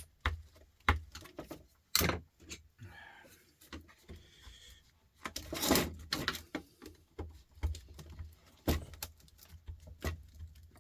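Irregular clicks, knocks and scrapes of hand tools and a plastic power-tool casing being handled while trying to get it apart, with a longer rattling scrape a little over five seconds in.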